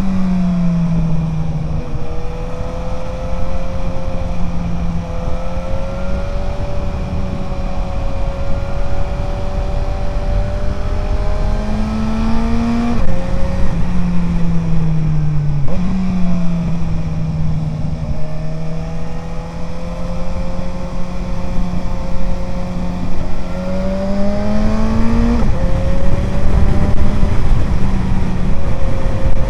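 Suzuki GSR 750's inline-four engine through an Ixrace Z7 aftermarket exhaust, running at mostly steady riding revs. Twice the pitch climbs and then drops sharply at an upshift, just before halfway and past the three-quarter mark; once, just after halfway, it falls and then jumps back up at a downshift. Heavy wind rush rides under it.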